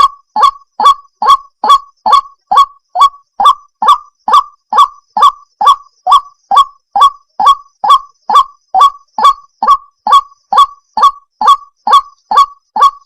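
White-breasted waterhen (ruak-ruak) giving its honking call: short, identical notes repeated at an even pace, about two to three a second, without a break.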